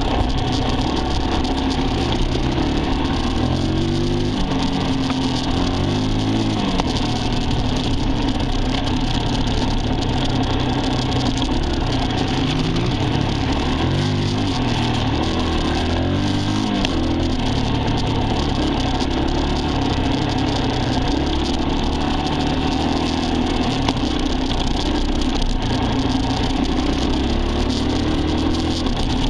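Dirt bike engine running under way, its pitch repeatedly rising and dropping back as it revs and shifts, over a steady rush of noise.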